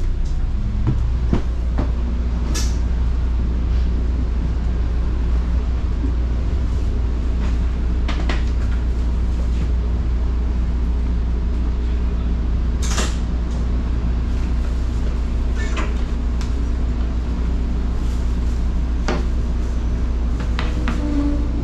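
Passenger train cabin noise: a steady low rumble with scattered sharp clanks and rattles, about half a dozen of them.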